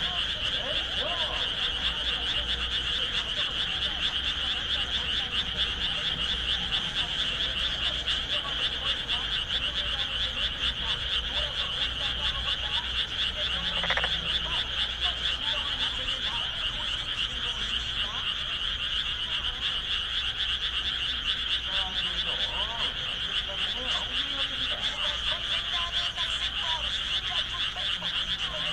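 Dense chorus of many frogs calling, a fast steady pulsing trill. A short, louder sound comes about halfway through.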